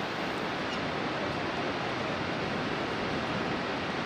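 Steady, even rush of the Bhotekoshi, a fast whitewater river, running through its gorge.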